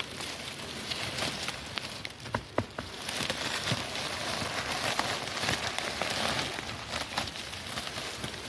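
Rustling and crackling of grass and leaves, with a few sharp clicks about two and a half seconds in. It grows louder from about three seconds on and eases near the end.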